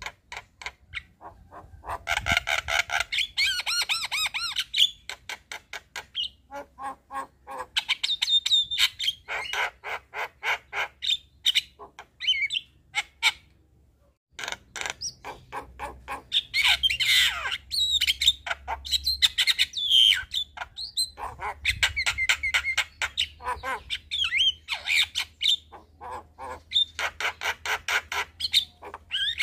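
Javan myna song: long runs of rapid clicking chatter mixed with harsh squawks and whistled slurs, broken by a short pause near the start and another about halfway through.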